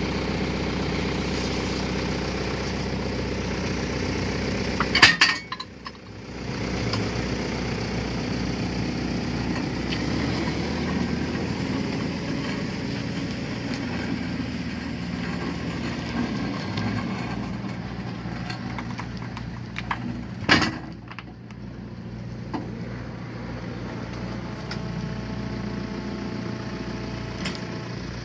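A machine's engine running steadily, with two sharp loud bangs about five seconds in and again about twenty seconds in.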